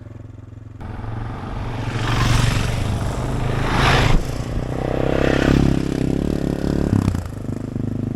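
AJP PR7 single-cylinder dual-sport motorcycle running under way, with rushing noise that swells and fades several times over the engine and some clattering. The engine note climbs in the second half and drops back shortly before the end.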